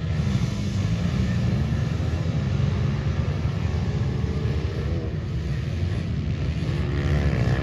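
Pit bike engines running together as a steady low drone, with engine notes rising and falling as throttles are blipped.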